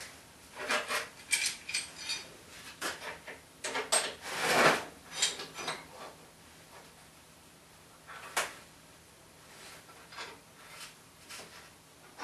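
A metal clamp being set and tightened on steel parts: scrapes, clicks and clinks of metal on metal, busiest in the first five seconds, with a single sharp click about eight seconds in.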